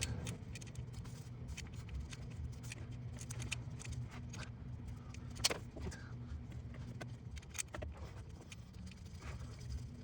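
Faint scattered clicks and light metal taps as the 10 mm sensor bolt is threaded in by hand, with a couple of sharper clicks midway, over a steady low hum.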